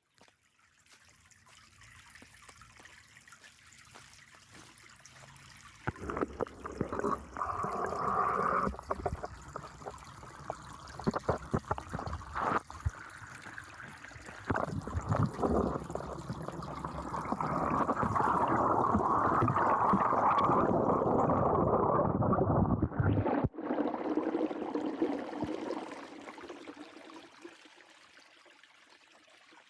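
Water trickling and gurgling, with scattered knocks and rustles. It comes in about six seconds in, grows louder, breaks off suddenly, then fades near the end.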